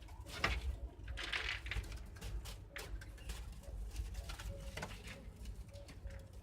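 Homing pigeons cooing, low repeated coos, with a few short bursts of rustling among them.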